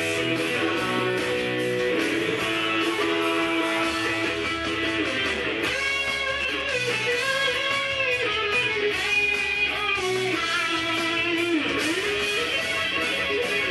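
Music led by guitar: a plucked and strummed guitar line over a steady beat.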